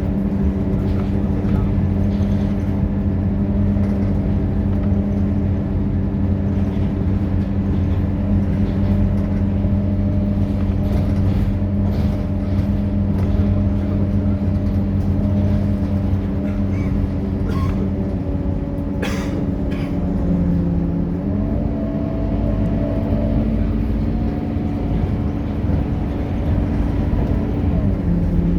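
Scania K230UB bus's five-cylinder diesel engine running steadily, its pitch shifting about two-thirds of the way through, with a brief sharp high noise just before.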